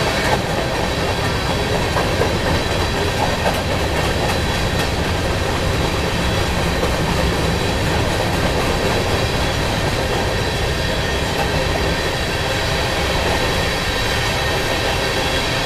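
Covered hopper cars of a freight grain train rolling past: a steady, loud rumble and rattle of steel wheels on rail.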